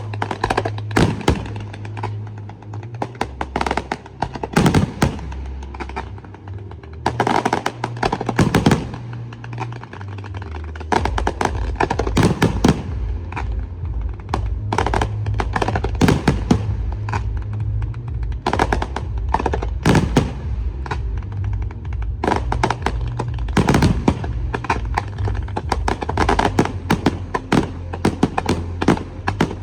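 Aerial firework shells bursting in a dense series of sharp bangs, some in quick rattling clusters, over music with a steady deep bass.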